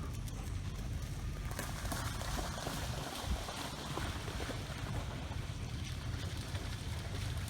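Wind buffeting the microphone with a steady low rumble, and a rushing hiss that grows about a second and a half in.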